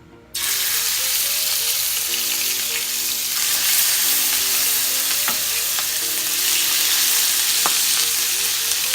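Seasoned talakitok (trevally) fish laid into hot oil: a loud sizzle starts suddenly a moment in and carries on steadily as the fish fries.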